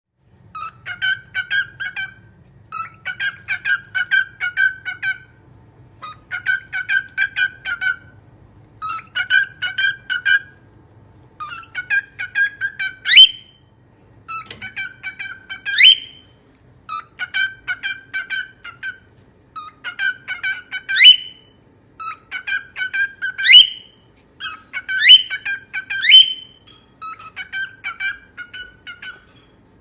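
A parrot calling in a regularly repeated phrase: a quick run of chattering notes, over and over about every two and a half seconds, with most phrases in the second half ending in a sharp rising whistle.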